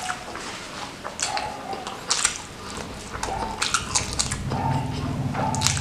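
Close-miked mouth sounds of someone eating crispy fried chicken with rice: bites into the crunchy battered crust, chewing and wet smacking, with sharp crunches about two seconds in and near the end.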